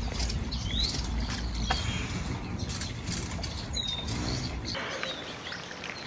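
Birds calling: short, sharp notes about once a second, some rising and some falling, over a low background rumble that stops about three-quarters of the way through.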